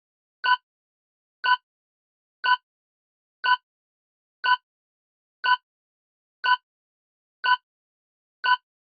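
Countdown-timer tick sound effect: short pitched ticks, evenly one each second, nine in all.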